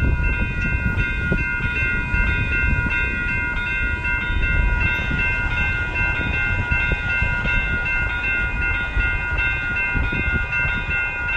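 A train passing close by: a steady low rumble under a high, steady tone of several notes that holds without a break.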